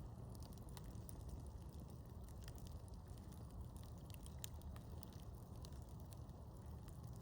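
Campfire crackling: scattered small pops and snaps over a steady low rumble.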